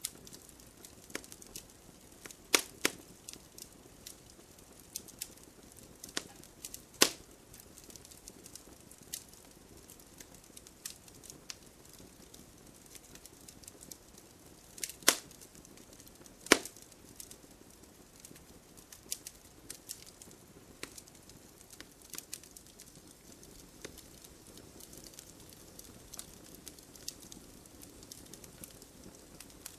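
Wood fire burning in a fireplace: a faint low hiss under irregular crackles, with a few loud sharp pops, about four standing out.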